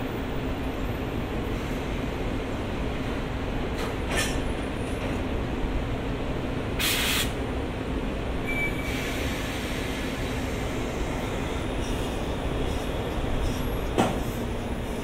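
A train at a station: steady running noise with a low steady hum, a short hiss of air about seven seconds in and a sharp clank near the end.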